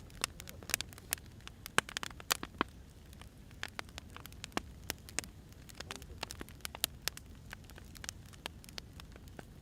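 Wood fire crackling: irregular sharp snaps and pops of burning firewood over a low steady background noise. The snaps are thickest and loudest in the first few seconds.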